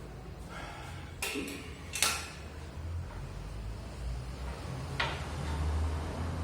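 A few short sharp clicks and knocks of hard objects, the loudest about two seconds in and another near five seconds, over a steady low hum.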